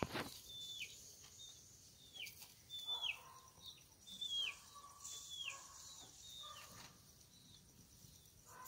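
A bird calling over and over: short, high chirps that each slide down in pitch, repeating about once a second, faint.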